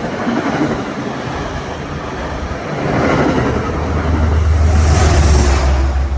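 A train passing close by: a rushing rumble of wheels and air that builds to its loudest about five seconds in, with a deep steady hum underneath.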